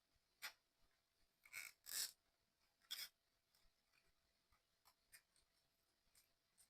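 Faint handling of 3D puzzle kit parts: four short scrapes and clicks in the first three seconds, then a few lighter ticks.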